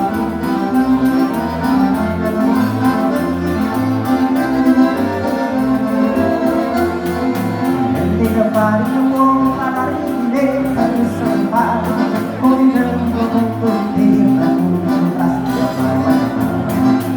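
Live gaúcho dance band playing an instrumental passage, the accordion's melody over a steady pulsing bass.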